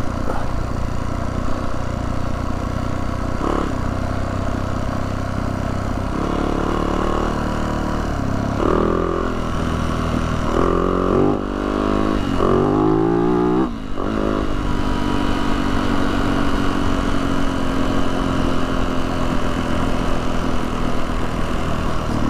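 Dirt bike engine running, its pitch rising and falling repeatedly for several seconds near the middle as the throttle is worked, then settling to a steadier note.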